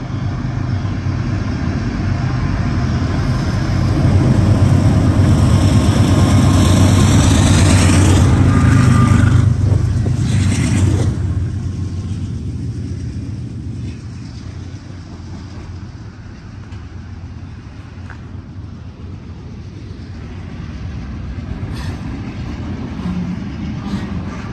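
Diesel freight locomotives running as they pass, with a low engine rumble that grows loud for several seconds and then fades. It gives way to the steadier, quieter rolling rumble of double-stack intermodal container cars on the rails.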